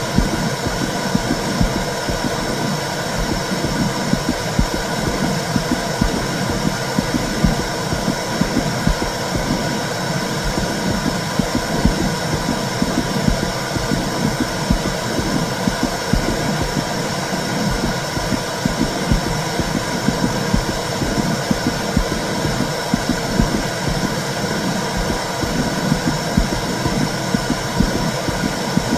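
Womb sound for calming a baby: a steady low whooshing noise with a throbbing pulse, unchanging throughout.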